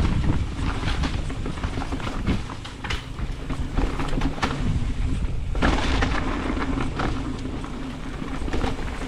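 Carbon Ibis Ripmo mountain bike ridden down a dirt trail: a steady rumble of tyres on the ground, with the bike rattling and knocking over bumps. A rougher, louder stretch comes just before the six-second mark.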